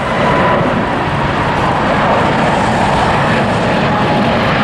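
Jet engines of a China Southern Cargo freighter at takeoff power on its takeoff roll: a loud, steady rushing noise with a faint high whine.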